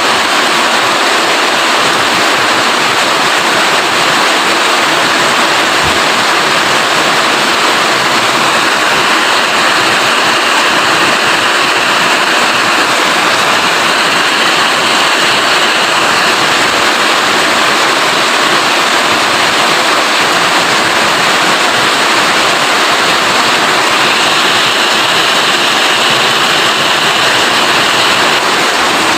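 Heavy rain falling, a loud, even hiss. A faint higher tone rises above it twice, once around the middle and again near the end.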